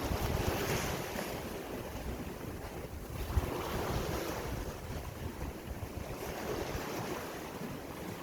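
Sea waves washing in and receding, swelling near the start and again about three seconds in, with wind buffeting the microphone.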